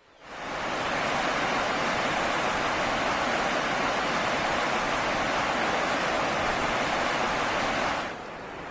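Floodwater rushing in an overflowing river, a loud steady rush that drops sharply to a quieter rush about eight seconds in.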